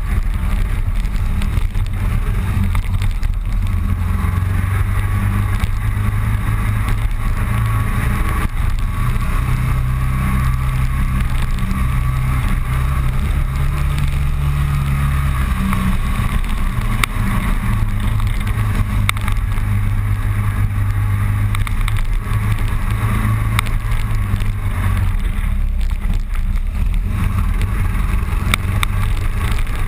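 Motorcycle engine running under way, its note shifting up and down a few times with the throttle, with steady wind noise over it.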